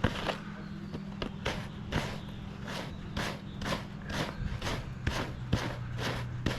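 Rhythmic scratchy strokes, about three a second, of a brush or comb being drawn through the feathers of a dried chicken hide. A steady low hum runs underneath.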